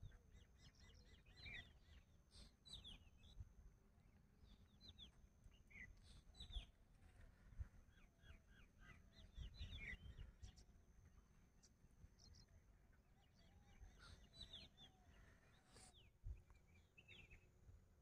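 Faint chirping of small birds: many short, quick downward-sweeping calls scattered throughout, over a low rumble.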